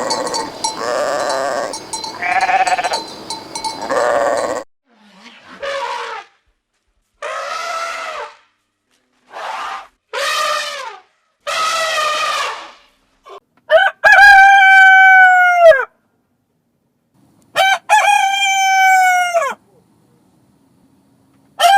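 A run of farm-animal bleats, about ten short calls with gaps between them, followed by a rooster crowing twice, each crow about two seconds long and louder than the bleats, with a third crow starting at the very end.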